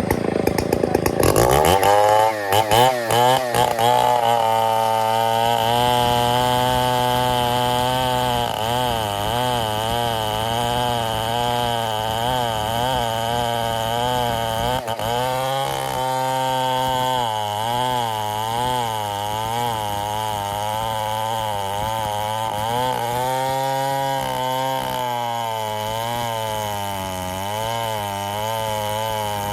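Stihl 070 two-stroke chainsaw revving up over the first couple of seconds, then running at high revs under load as it cuts an ironwood beam, its engine pitch wavering up and down with the cut.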